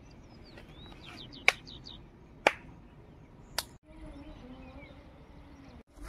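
Birds chirping faintly in short gliding calls, broken by three sharp clicks about a second apart.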